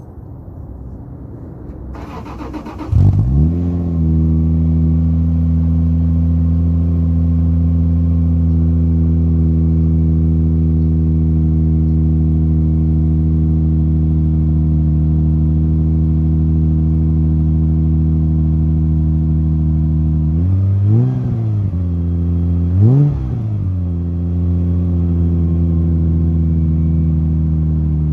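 Cold start of a 2001 Subaru Outback H6's 3.0-litre flat-six, heard through a near-stock exhaust with a Subaru BRZ mid-pipe resonator in place of the rear muffler. The starter cranks briefly, the engine catches about three seconds in with a short flare, then runs at a steady raised cold idle, is blipped twice around twenty seconds in, and settles a little lower near the end.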